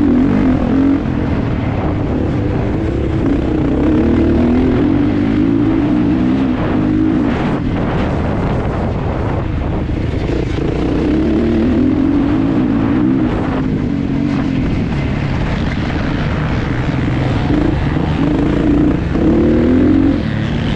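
Kawasaki KX450 single-cylinder four-stroke motocross engine running hard under race throttle, its pitch rising and falling continuously as the throttle is opened and closed.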